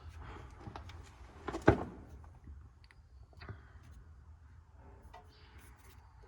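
A few light knocks and clicks of tools and grease-gun handling, the loudest about a second and a half in and another near the middle, over a faint low hum.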